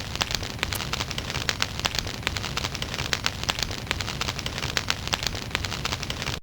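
Wood fire crackling in a fireplace: dense irregular pops and snaps over a steady hiss, cutting off suddenly at the end.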